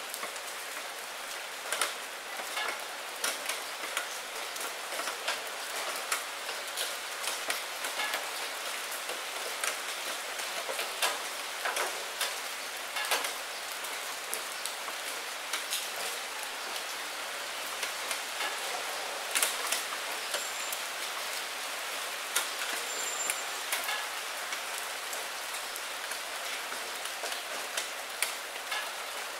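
Steady rain against a window pane: an even hiss with many separate drops ticking on the glass at irregular moments.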